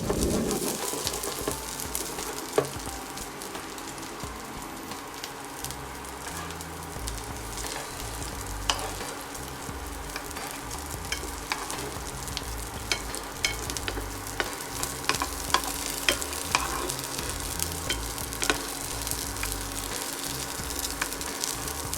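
Chickpea shami kebab patties frying in butter in a pan: a steady sizzle with frequent sharp pops and crackles.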